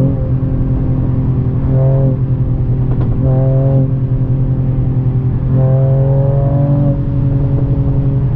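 Mercedes-AMG CLS53's turbocharged 3.0-litre inline-six running hard on the road. The engine note holds a steady pitch, swelling and easing slightly a few times.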